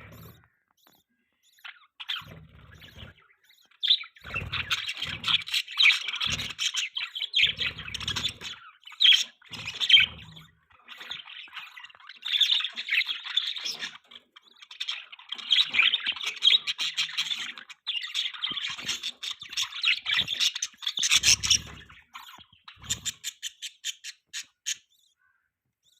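Budgerigars chattering and warbling in long runs of chirps and squawks, with a few low thumps in between and a string of quick short chirps near the end.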